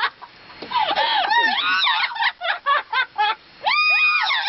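Parrot mimicking a woman's laughter: quick runs of high, chopped cackling notes, then one long held call near the end.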